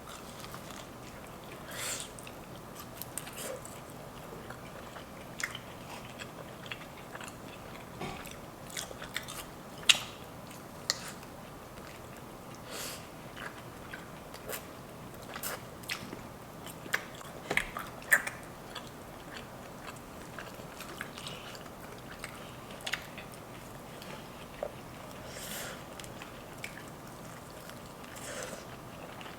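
Close-miked eating sounds: biting into and chewing an Asian Zing chicken wing, with scattered short crisp clicks and crunches over a steady quiet room tone.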